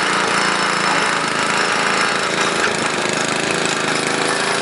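Small gasoline engine of a walk-behind garden machine running steadily with a rapid knocking beat. Its belt is a little loose but still working.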